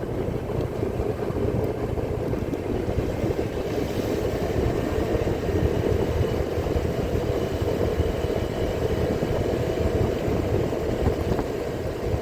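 Steady low rumble of a vehicle's engine and road noise while travelling along a road.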